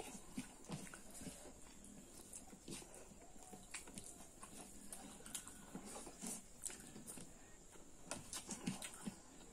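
Wet chewing and lip-smacking of pork curry and rice eaten by hand, in a string of irregular short smacks and clicks.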